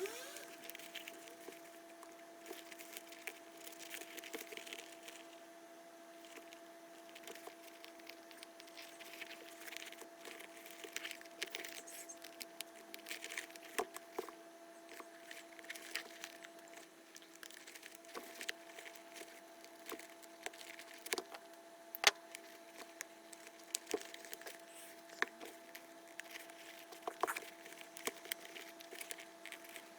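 Scattered small clicks and taps of hands handling the small parts of a disassembled shoe lacing dial and its wire, over a steady hum.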